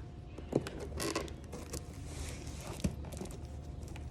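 A well-sealed cardboard box being worked open by hand: the cardboard creaks and rustles, with two sharp knocks, one about half a second in and one near three seconds.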